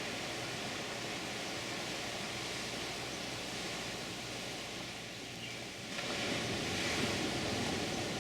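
Ocean surf breaking on the shore in a steady wash, with a louder wave breaking about six seconds in.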